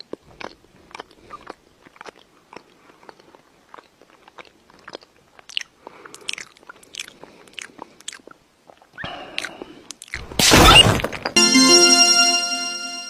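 A run of irregular small crunching clicks, then a loud noisy burst about ten seconds in, followed by a held musical tone.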